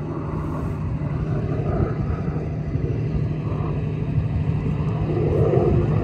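Loud, steady low rumble of aircraft engines running.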